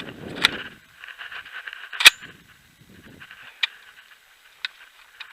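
A semi-automatic shotgun fires one loud shot about two seconds in. A few fainter sharp cracks come before and after it.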